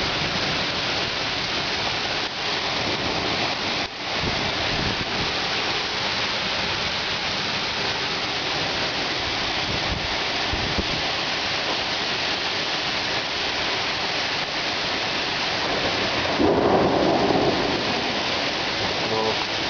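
Heavy thunderstorm rain pouring steadily, with thunder rumbling underneath. The sound swells louder for a moment about three seconds before the end.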